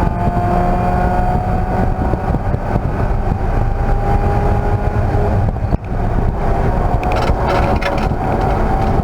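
Race car engine running hard under acceleration, its pitch climbing slowly, with a brief drop in loudness about six seconds in before it pulls again.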